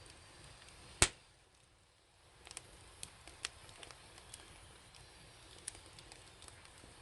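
Wood fire crackling, with one loud sharp pop about a second in, followed by scattered small snaps and crackles.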